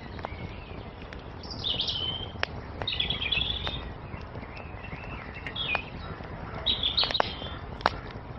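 Wood fire crackling with scattered sharp pops over a low steady rush, while a songbird sings short high twittering phrases four times.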